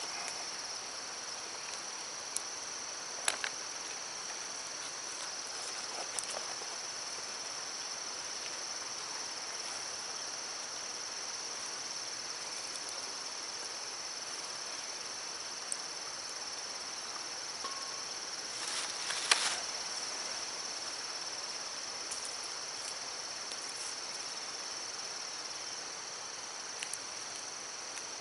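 Insects trilling steadily in one high, unbroken band over the even rush of a stream. A few sharp clicks are scattered through, and the loudest is a short burst about two thirds of the way in.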